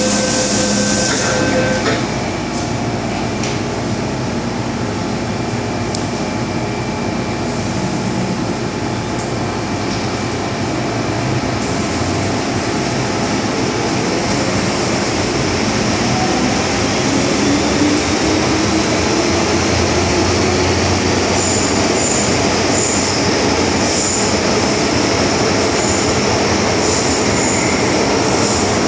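MTR M-Train electric multiple unit running, with a steady rumble of wheels on track and a motor whine that rises in pitch about halfway through as the train gathers speed. Short high-pitched wheel squeals come several times near the end.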